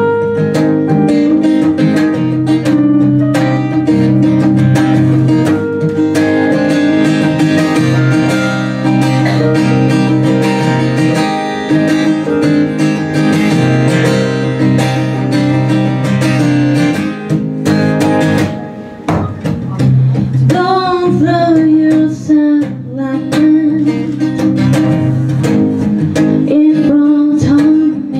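Live acoustic band music: steady acoustic guitar strumming under a held melody line, without sung words. About two-thirds of the way in the music thins briefly, then a high melodic line slides up and down in pitch.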